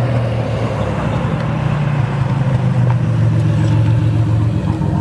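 Car engine running steadily at low revs, an even deep drone.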